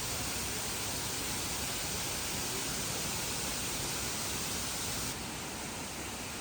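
Steady rush of running water. About five seconds in it changes abruptly to a slightly quieter, duller rush.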